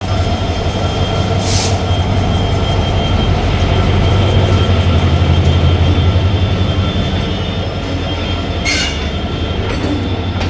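Railway locomotive 3001 running with a steady low drone and a few constant higher tones, loudest about halfway through. Two short bursts of high hiss come about a second and a half in and again near the end.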